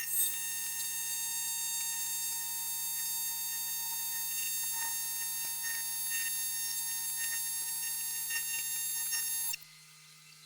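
AC TIG welding arc on 6061 aluminum, a steady high electrical buzz that cuts off suddenly about nine and a half seconds in when the arc is broken.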